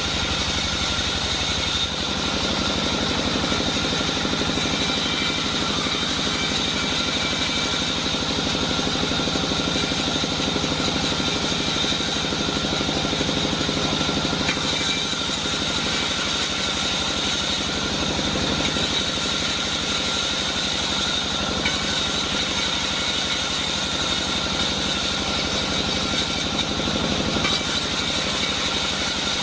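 Sawmill band saw running steadily, a constant machine drone with a steady high whine over it.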